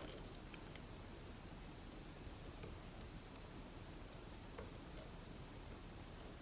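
Faint, scattered small metallic clicks and ticks of a lock pick and tension wrench working the pins of an Assa Abloy Arrow pin-tumbler lock cylinder, a few irregular clicks seconds apart.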